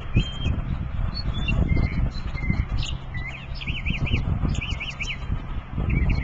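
A songbird singing short whistled phrases: a couple of flat, even notes near the start, then two quick runs of rapid up-and-down notes in the middle. A loud, uneven low rumbling noise runs underneath.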